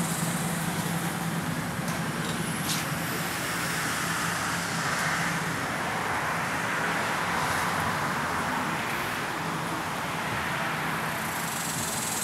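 A motor vehicle engine running steadily with a low hum, amid continuous outdoor noise.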